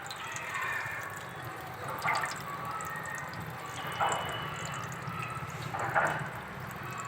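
Water splashing and dripping steadily, with a louder splash about every two seconds.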